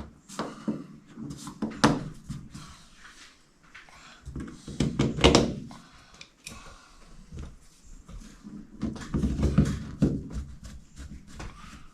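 Irregular plastic clicks and knocks of a cab roof marker light being handled and pressed into its mount, with heavier thumps about 2 s in, around 5 s and around 9–10 s.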